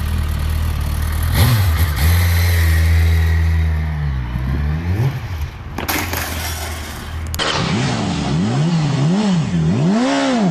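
Motorcycle engine running, then revved up about a second and a half in, held, and let fall. A couple of sharp knocks follow, and then the engine is blipped up and down four or five times in quick succession.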